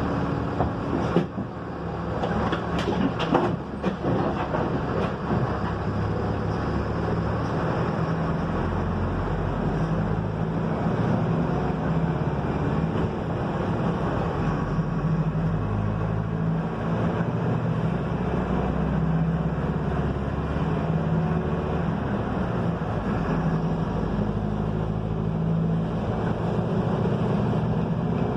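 Mercedes-Benz OF-1721 bus with its front-mounted diesel engine running under way, heard from inside the Marcopolo Torino S body as a steady engine hum with road noise. A few sharp knocks and rattles come between about one and four seconds in.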